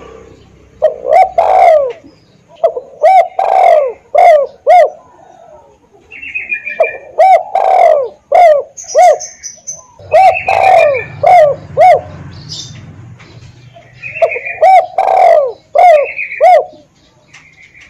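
Spotted doves cooing in about five repeated phrases, each a run of short, falling coos. Fainter, higher chirps from small birds fall between the phrases.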